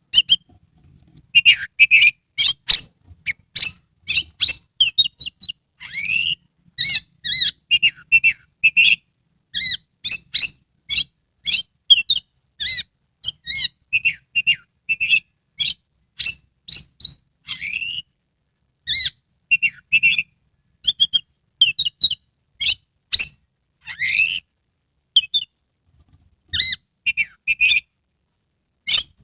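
Oriental magpie-robin (kacer) in full song: rapid, varied phrases of short whistled and chirping notes, with brief silent pauses between phrases.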